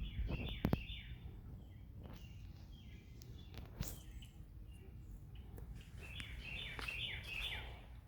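A songbird singing two quick runs of short falling chirps, one at the start and one near the end, over a low outdoor rumble, with a few sharp clicks in between.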